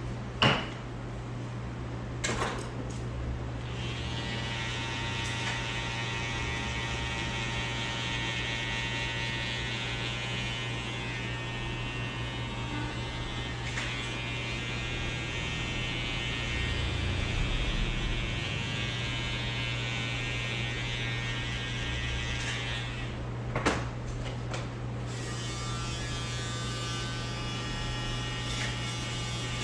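Electric hair clippers running with a steady low buzz. A higher, richer buzz joins about four seconds in, breaks off briefly about three-quarters of the way through, then returns more faintly. A few sharp clicks come near the start and at that break.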